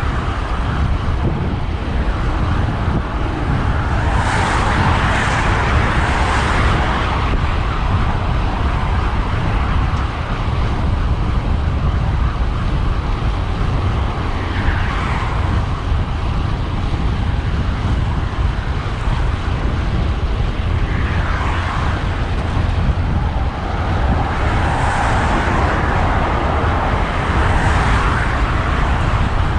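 Wind rushing steadily over the microphone of a moving road bike, with cars passing by every few seconds, the loudest swells about four seconds in and again near the end.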